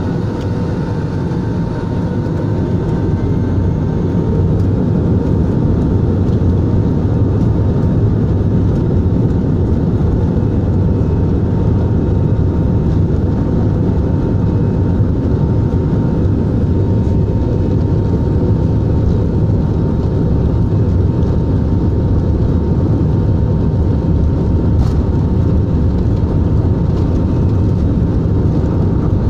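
Airbus A320 jet engines running at high power: a loud, steady low rumble with a faint steady whine over it, building slightly in the first few seconds and then holding level.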